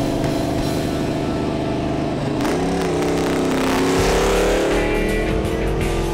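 A car engine accelerating, its pitch rising slowly from about halfway through, heard together with background music.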